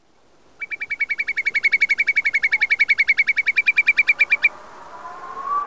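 A bird trilling: a fast, even run of about ten chirps a second lasting about four seconds. A short rising tone follows near the end.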